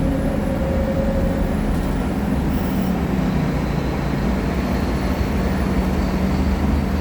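Scania K310 diesel engine of an articulated BRT bus running steadily under a low rumble, with a brief high hiss about two and a half seconds in.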